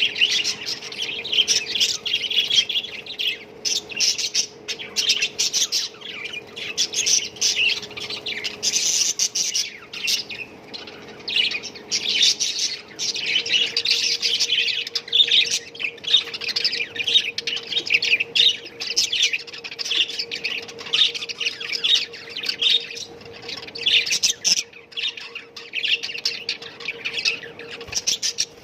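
A flock of caged budgerigars chattering and chirping together without pause, a dense mass of overlapping squawks and warbles. A faint steady hum runs underneath.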